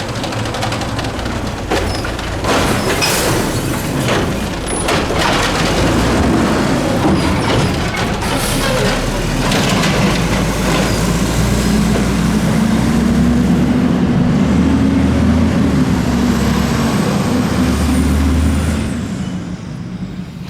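Mack LE garbage truck with an Amrep automated side-loader body working: several clanks and short air hisses, then its diesel engine revs up as the truck pulls away and dies down about a second before the end.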